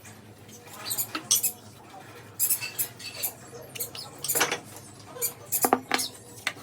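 Wooden sticks and nails being handled during assembly: irregular light clicks, taps and scraping, several sharper knocks in the second half.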